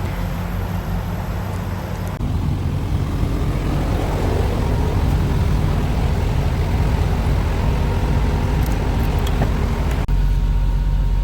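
Semi-truck engine drone and road noise while driving, steady throughout, with abrupt jumps in the sound about two seconds in and near the end.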